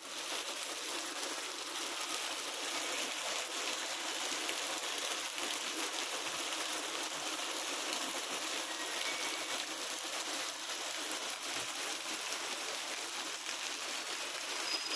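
Steady, even rush of heavy rain and running water, with no break in level.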